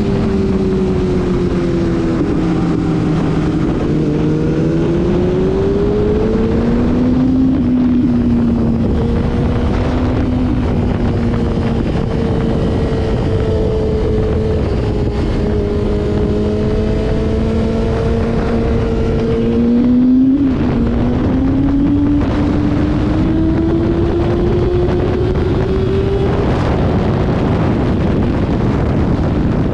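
Motorcycle engine running at speed with heavy wind rush on the microphone. Its note falls over the first few seconds, climbs again, holds fairly steady for a long stretch, dips sharply about twenty seconds in and then rises once more.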